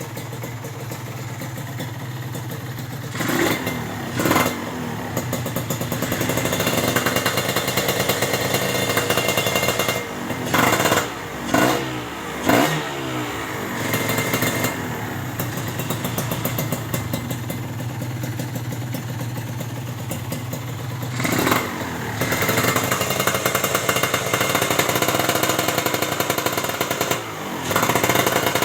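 Motorcycle engine with a KNC Racing big-volume aftermarket exhaust, idling and blipped in short throttle revs about seven times, mostly in clusters of two or three.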